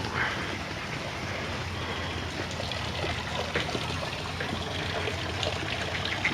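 Running water trickling steadily, with faint scattered ticks and splashes.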